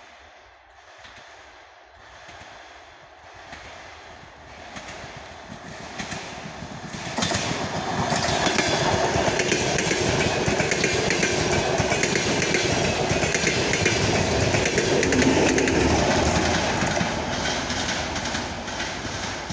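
Passenger train of DRB1 carriages hauled by a 2M62U diesel locomotive approaching and passing close by. A rising rumble with faint even clicks from the rails grows into loud, rapid clickety-clack of wheels over the rail joints from about seven seconds in as the carriages roll past. It ends with the locomotive passing and the sound beginning to fade near the end.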